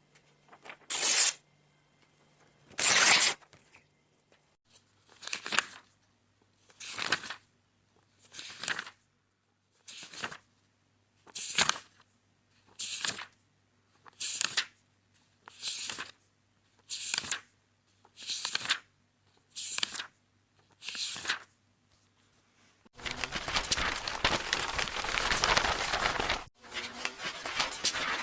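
Paper book pages turning one at a time, a short papery swish about every one and a half seconds. Near the end comes a longer, continuous paper tearing noise lasting about three seconds, followed by a rougher rustle.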